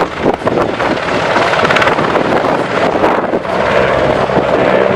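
CH-149 Cormorant search-and-rescue helicopter flying a display close by: loud, steady rotor and turbine noise with a fine rapid flutter, and wind buffeting the microphone.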